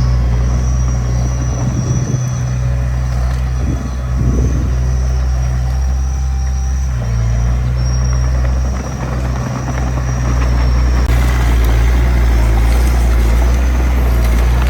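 Diesel engine of earthmoving machinery running steadily under work, with a brief drop in level about nine seconds in and a louder, harsher sound from about eleven seconds as it works harder.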